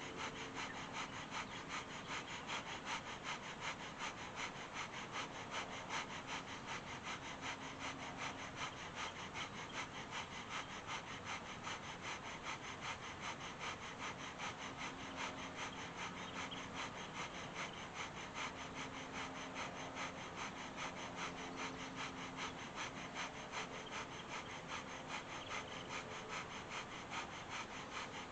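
Kundalini yoga breath of fire: rapid, rhythmic breathing through the nose, equal inhale and exhale, at about three breaths a second.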